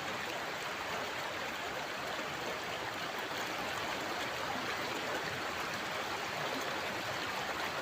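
River water flowing steadily, an even rushing with no distinct splashes.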